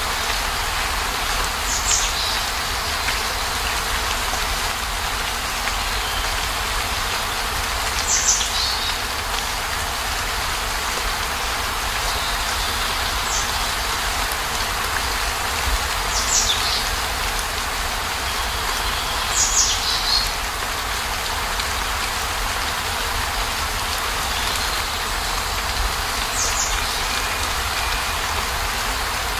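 Steady heavy rain falling on a minivan's roof and windows, with a low rumble underneath and a handful of brief, louder drips every few seconds.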